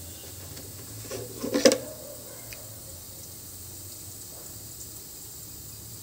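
Jackfruit seeds frying quietly in oil in a steel wok, a faint steady background, with a short clatter of sharp knocks about a second and a half in.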